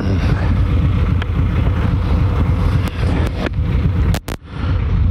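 Harley-Davidson V-twin motorcycles idling at a stop with a steady, pulsing low rumble. The sound drops out briefly about four seconds in.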